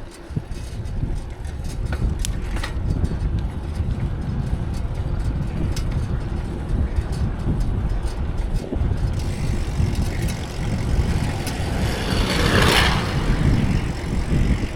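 Wind buffeting the microphone of a moving bicycle, with road traffic around it. A motor vehicle passes close by, swelling and fading, about three-quarters of the way through.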